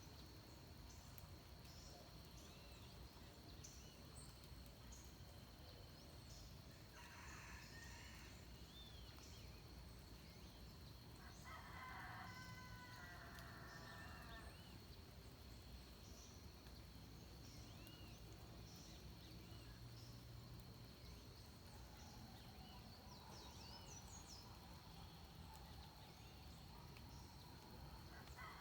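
Faint rooster crowing at dawn: a shorter crow about seven seconds in, a longer one of about three seconds near twelve seconds, and another starting at the very end. Under it runs a steady high insect tone with scattered small bird chirps.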